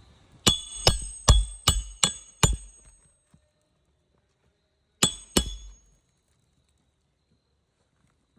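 A hammer striking metal with a bright ring: six quick, evenly spaced blows, then two more after a pause, as in hand-nailing or tapping a bar during shingle repair work.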